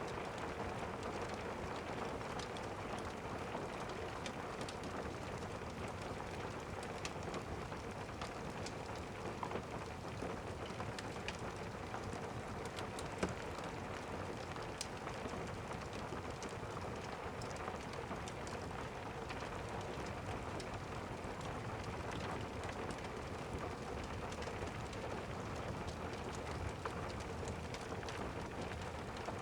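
Steady rain, with many small scattered crackles from a log fire over it and one louder crack about thirteen seconds in.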